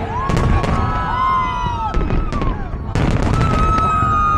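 Aerial firework shells bursting in a large display: a string of sharp bangs and crackles over a continuous low rumble. A few long high tones rise and fall above them, one held steady near the end.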